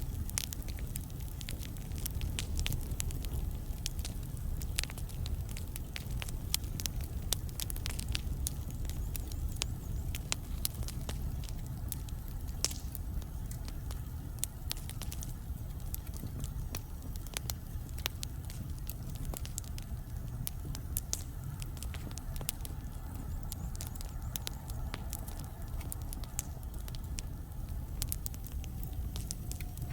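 Wood fire burning in a fireplace: logs crackling and popping in many sharp, irregular snaps over a steady low rumble of the flames.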